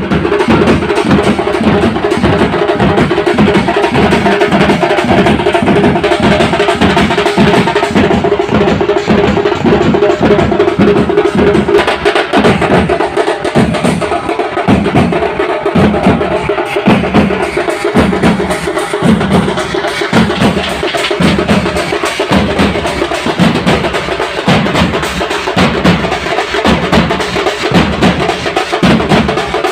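Drums played continuously in a steady, driving rhythm, with dense, evenly repeating strokes.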